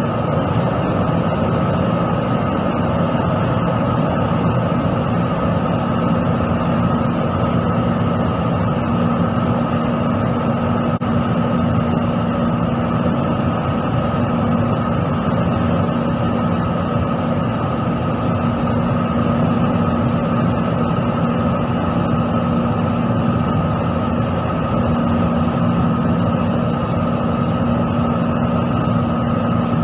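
Steady jet airliner cabin noise from inside the passenger cabin: the engines' drone and the rush of air, with a constant low hum and a higher steady whine, unchanging throughout.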